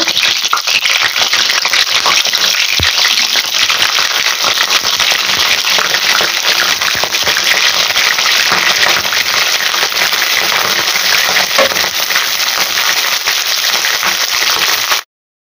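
Cauliflower florets frying in hot mustard oil in a kadai at full flame: a dense, steady sizzle with constant crackling and spatter. It cuts off abruptly near the end.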